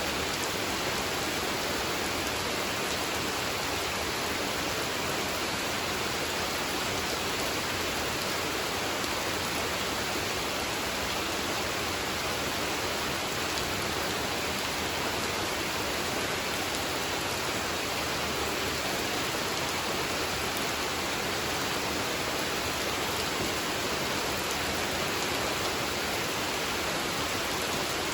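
Steady rain falling on a pond: an even, unbroken hiss.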